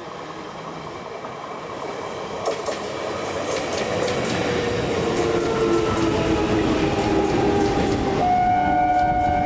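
Express train approaching at speed, its wheel and rail noise growing steadily louder. About eight seconds in, a steady multi-tone horn sounds over it.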